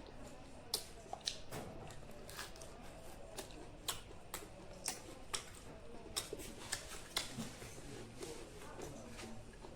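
A person chewing food close to the microphone, with faint irregular sharp mouth clicks and smacks about one or two a second.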